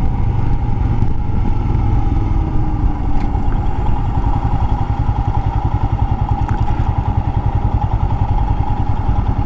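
Motorcycle engine running at low speed with an even exhaust pulse, which becomes regular after a few seconds, and a steady whine alongside it.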